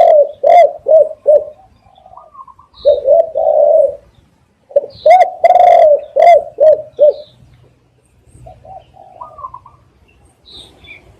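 Spotted dove cooing: phrases of several quick, hollow coo notes repeated in loud bouts at the start and in the middle, with fainter coo phrases near the end.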